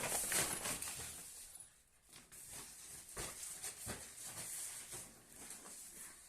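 An angry animal hissing: a sudden loud hiss at the start, then more hisses broken by short sharp ticks.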